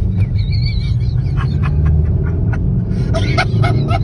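Steady low rumble of a running car engine. A brief wavering high squeal comes about half a second in, and a quick run of short, sharp, pitched sounds follows about three seconds in.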